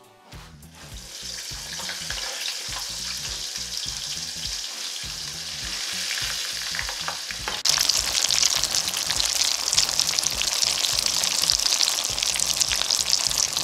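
Tuna and mashed-potato patties deep-frying in a small saucepan of hot oil: a steady sizzle that builds as they go in, then turns suddenly louder about halfway through.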